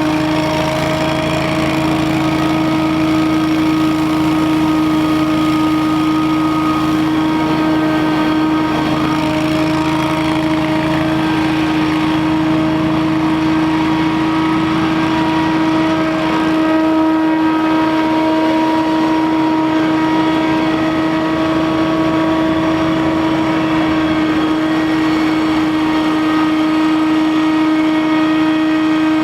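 Scag Windstorm stand-on leaf blower running steadily at full speed, a loud engine-and-fan sound holding one constant pitch.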